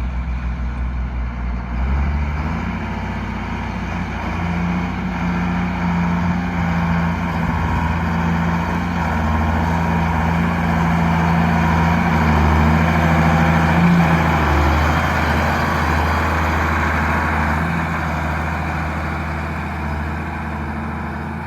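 Case IH 7120 Magnum tractor's six-cylinder diesel engine running, stepping up in speed about two seconds in and then holding steady. A strong steady hum sits over it until about two-thirds of the way through.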